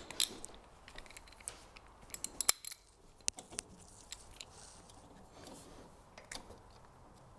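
Scattered metallic clicks and clinks of hand tools at work on an engine's spark plugs, with a cluster of sharper clinks about two and a half seconds in.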